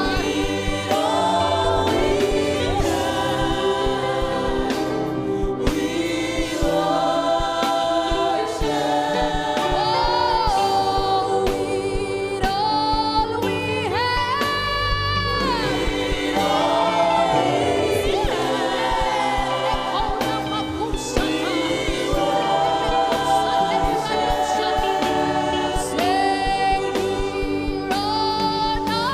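Live gospel worship music: voices singing together over a band, with long held, sliding notes.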